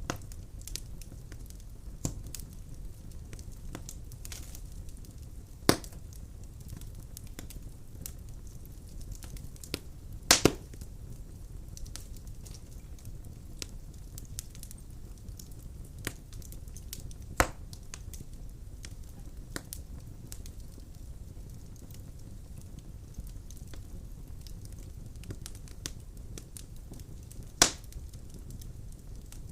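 Wood fire burning in a fireplace: a steady low rumble of flame with constant small crackles, and a few sharp loud pops of splitting logs, the loudest a double pop about ten seconds in and another near the end.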